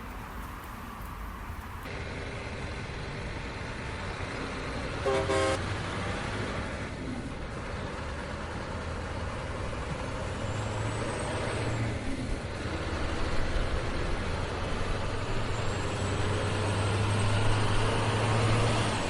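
Steady engine hum and road noise of a truck driving, with a vehicle horn sounding once, briefly, about five seconds in. The engine hum grows louder toward the end.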